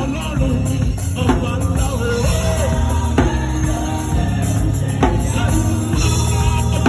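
Live gospel praise music: voices singing over a band with drums and heavy bass.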